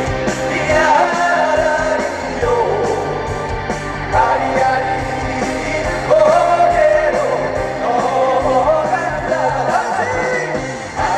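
Live trot music from a band with a steady beat, with singing carried over it.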